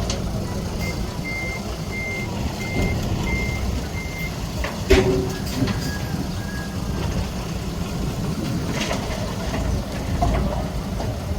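Heavy machine's backup alarm beeping six times, about one and a half beeps a second, over the steady low rumble of diesel earthmoving machinery; a sharp clank about five seconds in, then two fainter beeps.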